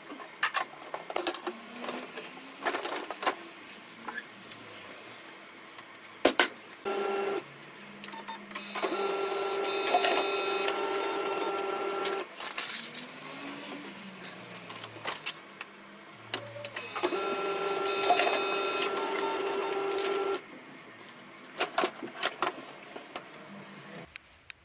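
Canon MF4018 laser printer running: clicks, a short whir, then two spells of steady motor hum of about three and a half seconds each, with more clicks between and after.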